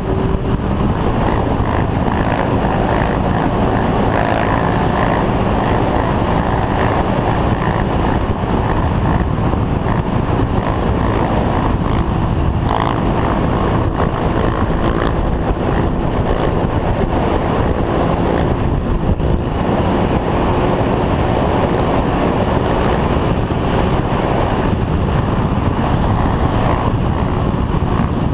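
Steady loud rush of wind on the microphone of a moving motorcycle, with the engine running as a low drone underneath.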